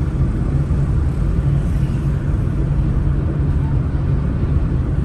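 Steady engine and road noise of a vehicle being driven along a road, with an even low drone.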